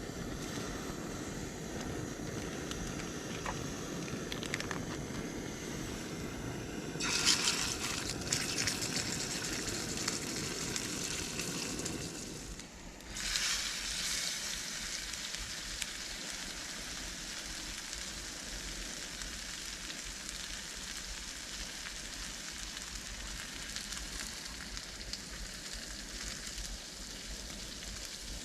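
Food frying over a campfire: a steady sizzle with fine crackles. The sizzle jumps suddenly louder about seven seconds in, and a low rumble runs under the first twelve seconds, then stops.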